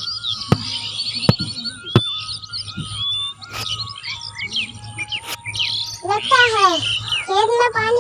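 Birds chirping and tweeting in a dense chorus of short high calls, with scattered sharp clicks. About six seconds in, a wavering, voice-like call with rising and falling pitch joins in.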